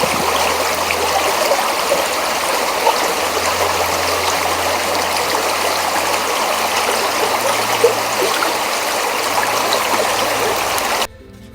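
Loud, steady rush of flowing river water, spring meltwater running beside the ice, starting and stopping abruptly.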